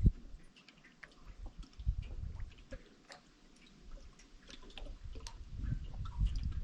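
Water dripping and trickling in scattered small ticks and plips, with a dull thump at the very start and patches of low rumble about two seconds in and again near the end.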